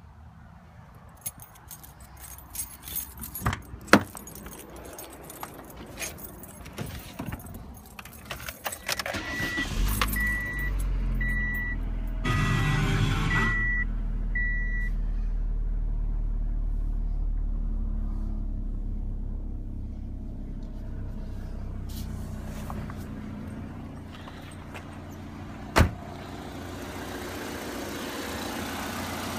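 Keys jangling and clicks, then a car's warning chime beeping steadily while the 1999 Mercury Tracer's four-cylinder engine starts about ten seconds in and settles into a steady idle. A single sharp knock sounds near the end.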